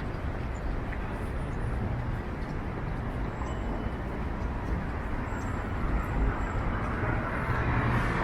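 Busy downtown street ambience: a steady wash of traffic noise that grows louder near the end, as if a vehicle draws close.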